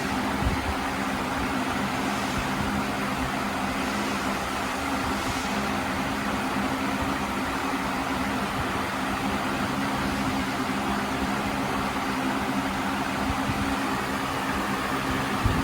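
Steady machine hum with a constant hiss, as of a motor or fan running without change.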